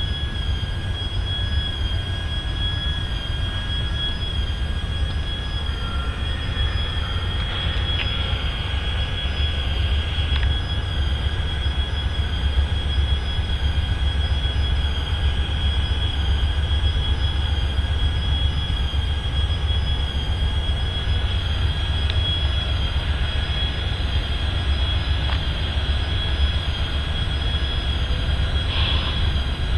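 Steady low rumble of rail equipment, with a thin, high-pitched steady squeal held over it.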